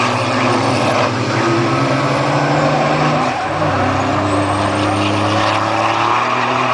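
Fórmula Truck racing trucks' diesel engines running hard on the circuit, a loud steady drone with a brief dip and change of pitch about three seconds in.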